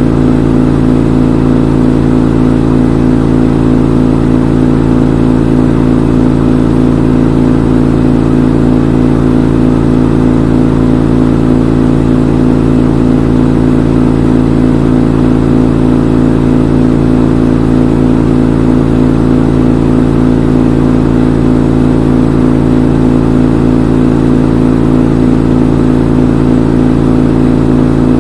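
Front-load washing machine in its spin cycle: the drum spinning at a steady high speed, a constant motor hum with a whir over it.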